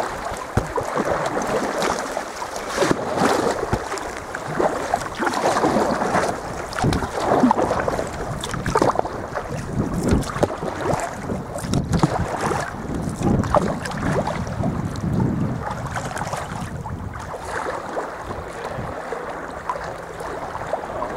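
Water splashing and lapping around a sea kayak as it is paddled on the sea, with irregular paddle splashes and wind buffeting the microphone.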